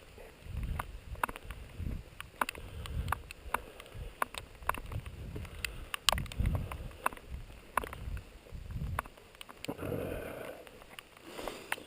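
Footsteps walking at a steady pace, a soft thud about every two-thirds of a second, with scattered sharp ticks over them.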